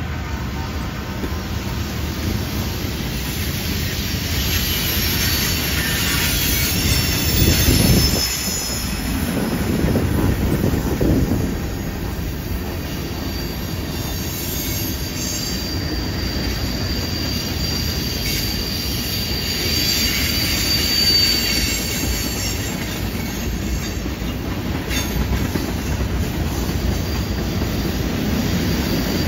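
Freight cars of a long train, covered hoppers and tank cars, rolling past close by on a curve: a steady rumble of steel wheels on rail that swells twice early on. Thin, high wheel squeal from the curve drifts in and out, clearest about twenty seconds in.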